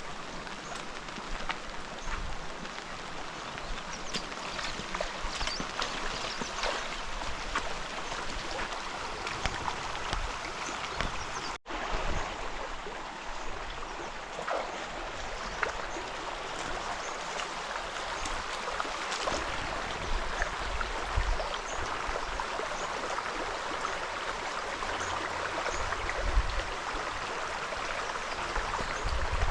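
River water flowing steadily, with many small splashes and ticks through it.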